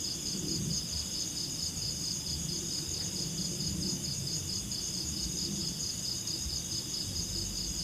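Night insects, crickets or similar, keeping up a continuous high, pulsing trill at about four pulses a second, with a low rumble underneath.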